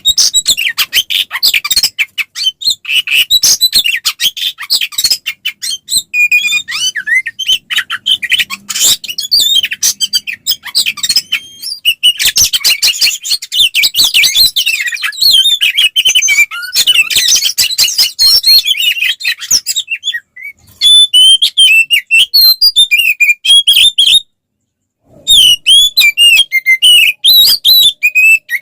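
Oriental magpie-robin (kacer) singing nonstop in its aggressive fighting song: a fast, dense stream of chattering and whistled notes that later turns into sharper, separate whistled phrases, with a pause of about a second near the end.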